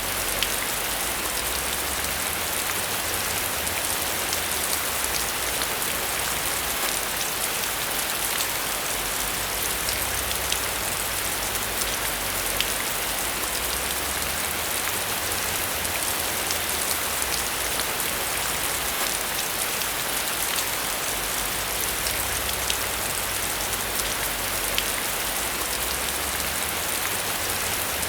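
Steady rain falling, an even hiss with many small sharp drops pattering on a surface.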